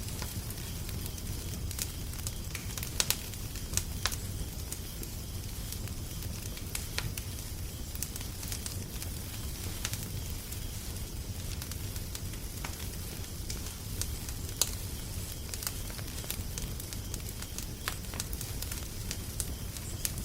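Wood fire crackling, with irregular sharp pops and snaps over a steady low rumble; a few pops stand out louder, about 3, 4 and 14 seconds in.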